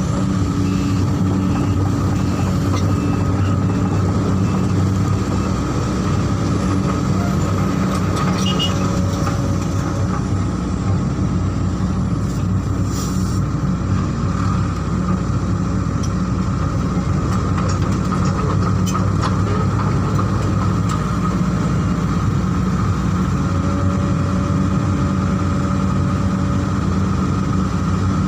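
Heavy diesel engine running steadily at a constant speed, with a faint higher hum that comes and goes.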